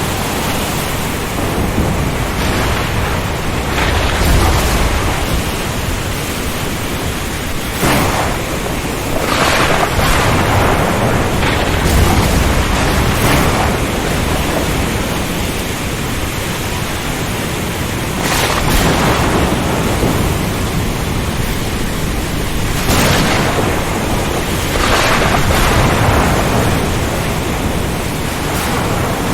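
Storm at sea: a continuous rush of strong wind, waves and rain that swells and eases every few seconds, with low rumbles of thunder a few seconds in and again near the middle.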